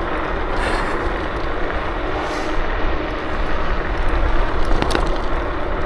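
Steady rumble and hiss of an electric scooter on the move, tyre and road noise mixed with wind on the microphone, with a short knock about five seconds in.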